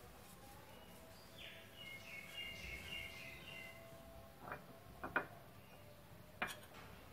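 Faint birds chirping in the background, a cluster of short high chirps, then a few soft clicks in the second half.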